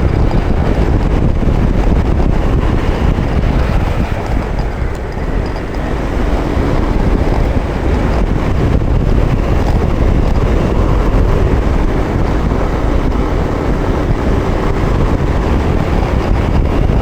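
Steady, loud wind rushing over the microphone of a moving scooter, with road and motor noise beneath; it starts abruptly and keeps an even level.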